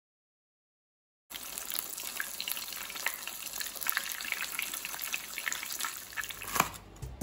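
Breaded chicken cutlet (chicken katsu) shallow-frying in hot oil: a steady sizzle full of small crackles that starts suddenly about a second in, with one sharp click near the end.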